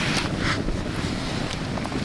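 Wind buffeting the microphone in a steady low rumble, with a couple of brief scratchy sounds in the first half second.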